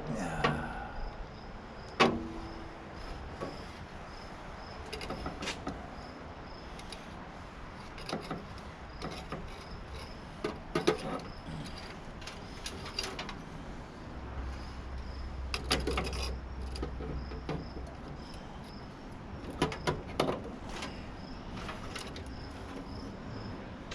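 Scattered clicks, taps and clunks of hand tools and metal parts as a tankless water heater is dismantled, over a faint, evenly repeating high chirp. A low rumble runs for a few seconds in the middle.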